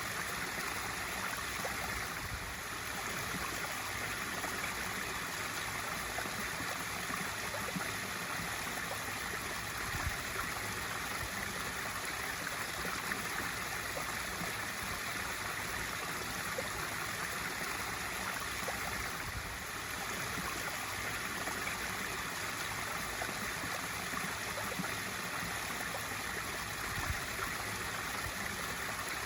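Swimming pool waterfall feature running steadily: water spilling and splashing into the pool in an even, continuous rush, with small splashy ticks here and there.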